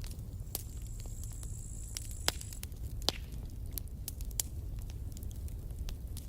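Campfire burning: wood crackling with irregular sharp pops, a couple of them louder, over a steady low rumble of the flames. A faint thin high whistle runs for about two seconds near the start.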